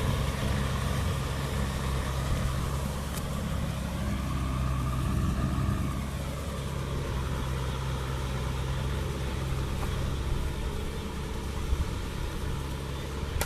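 Kubota M6040 tractor's diesel engine running steadily.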